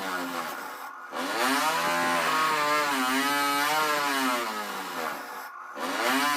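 A handheld power tool's motor running, its pitch climbing and then sagging and wavering as the tool is worked. The sound stops briefly about a second in and again near the end.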